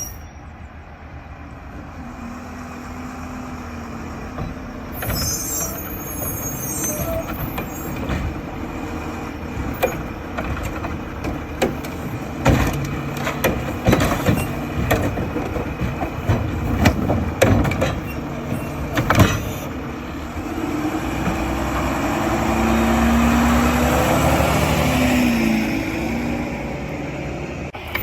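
Mack garbage truck with a Heil refuse body working a collection route: its diesel engine runs throughout, with a hiss of air brakes early on. A run of sharp clanks and bangs in the middle is a cart being emptied, and near the end the engine revs up for a few seconds as the hydraulics work.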